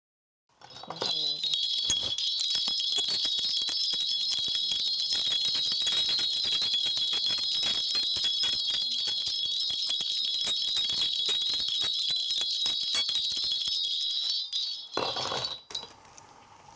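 A Korean shaman's cluster of brass ritual bells (bangul) shaken hard and without pause: a dense, bright jingling that runs for about fourteen seconds, shaken during a divination to consult the spirits. It stops near the end with a short rustle.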